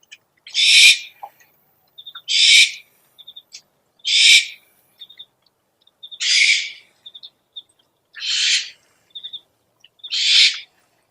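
Owl calls from an owl-lure recording: a raspy, hissing screech about half a second long, repeated six times at roughly two-second intervals, with soft short high peeps in between.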